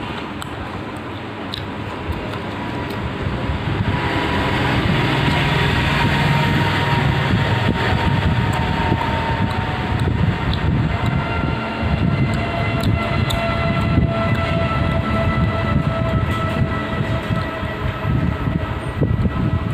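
A loud rumble, most likely a passing train, swells up over the first few seconds and stays loud, with faint tones slowly falling in pitch. Small clicks of eating run through it.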